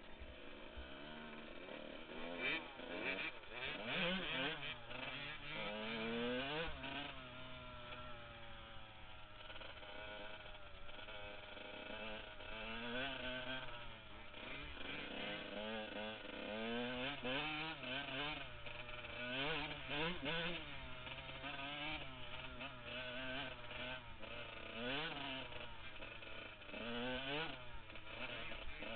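Honda CR125 two-stroke single-cylinder engine being ridden, its pitch climbing and dropping again and again as the throttle is opened and closed and the bike is shifted.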